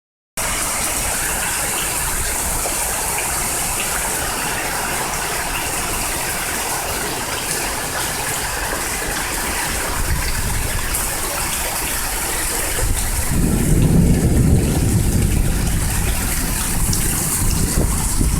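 Hard rain pouring down steadily. About two-thirds of the way through, a louder low rumble joins it.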